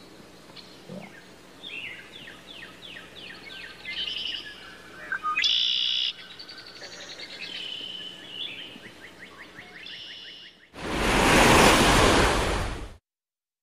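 Small birds chirping, with several rapid trills, over faint background noise. About eleven seconds in, a loud rushing whoosh takes over for about two seconds and cuts off abruptly.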